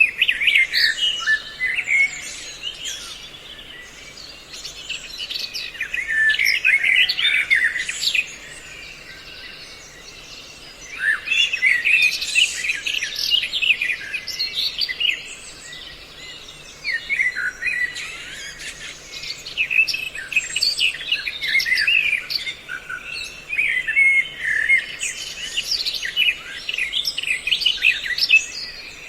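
Several songbirds chirping and trilling together in a mixed call recording of the kind played as a trapping lure, in loud bursts of busy calls separated by a few seconds of quieter chatter.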